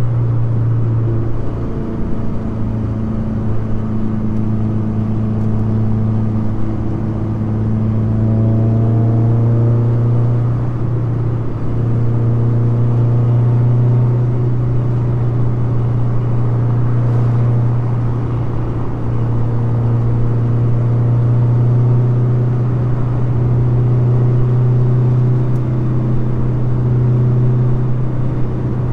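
Mazda Miata's four-cylinder engine cruising steadily, heard from the open cockpit with the top down, together with road and wind noise; the engine note shifts in pitch around ten seconds in.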